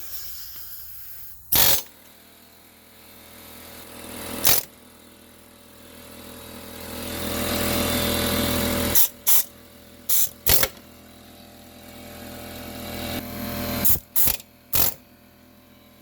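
Hammer strikes on a punch driving a broken wheel stud out of a car's rear wheel hub: about nine sharp metal blows, spaced irregularly, several in quick pairs and a triple near the end. A steady mechanical hum runs underneath and swells in the middle.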